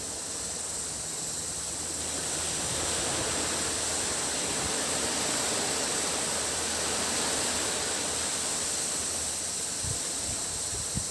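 Sea waves washing onto a tropical beach, swelling about two seconds in and easing near the end, over a steady high-pitched drone of cicadas.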